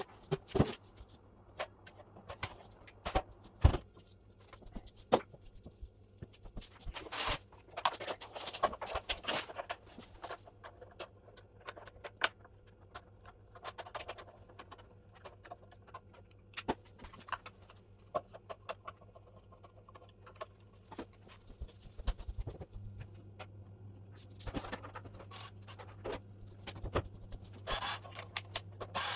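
Sporadic clicks, knocks and scrapes of tools and plastic and metal parts being handled as a miter saw is taken apart, over a steady low hum.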